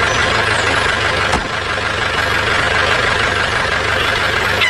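A small motor running steadily with a constant whine, with one short knock about a second and a half in.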